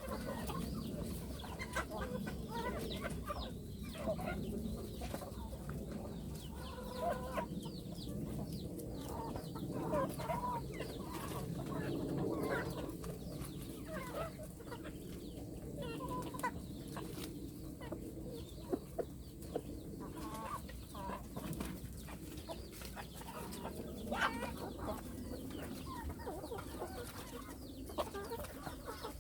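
A flock of young hens clucking, with many short, scattered calls over a low steady background.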